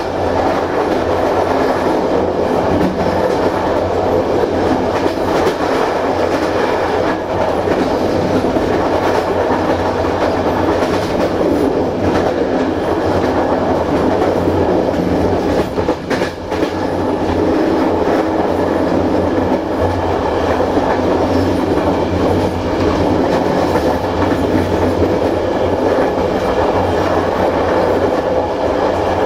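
Passenger train running along the track, a continuous loud rumble and clatter of the coach's wheels on the rails, with a brief dip in loudness about halfway through.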